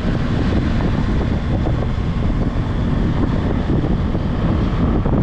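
Loud wind rumble on the microphone, a constant low, fluttering buffeting with a noisy hiss above it.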